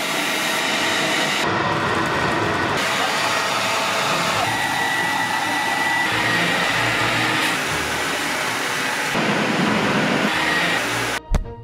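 Loud, steady rushing of motor-driven air-moving restoration equipment, of the kind used to extract water and dry carpet, changing abruptly between shots. A short sharp knock comes near the end.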